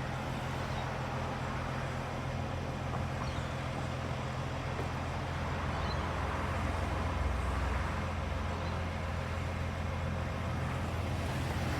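Steady low hum of motor vehicle engines and road traffic, growing a little louder in the middle.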